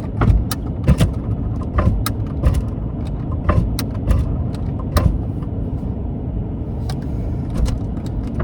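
Steady low rumble of a car running, heard inside its cabin, with scattered sharp clicks and knocks from switches and handling.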